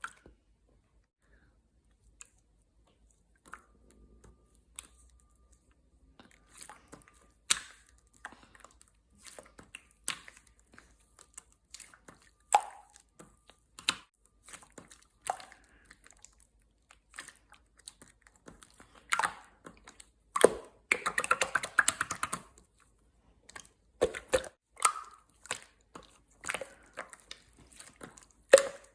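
Clear, colourless slime being squished and pressed by hand, making scattered wet pops and sticky clicks, with a longer run of crackling squelches about two-thirds of the way through.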